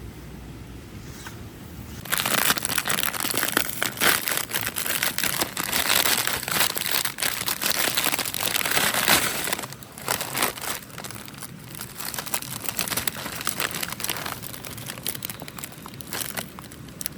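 Crinkling and rustling of material handled close by, starting suddenly about two seconds in and growing quieter about halfway through.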